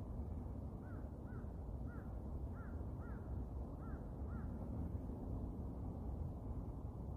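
A bird giving about seven short, arched calls, roughly in pairs, over a steady low rushing background noise.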